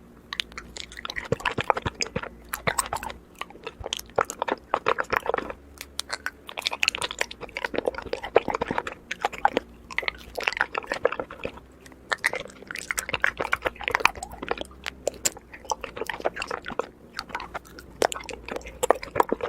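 Honeycomb being chewed and bitten: crunching with many small sharp clicks and crackles, in bursts about once a second.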